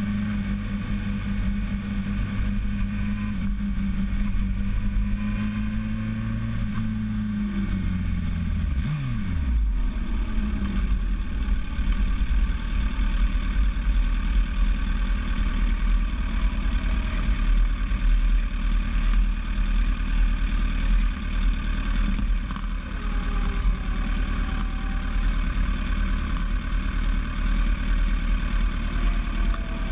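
Vehicle engine running at a steady pitch, then dropping sharply in pitch about eight seconds in, followed by a low rumble with noise for the rest of the time.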